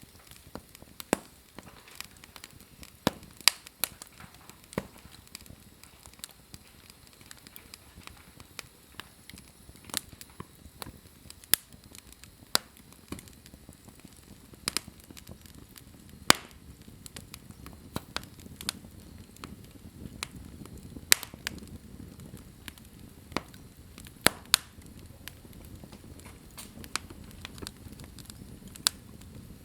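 Wood fire burning in a fireplace, crackling with sharp, irregular pops and snaps over a low, soft rumble of flames.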